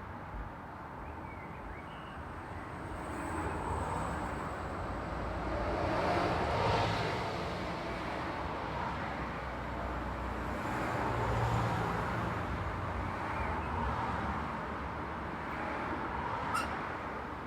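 Road traffic: a steady hiss of tyres and engines, swelling as vehicles pass about six seconds in and again around eleven seconds. A short click sounds near the end.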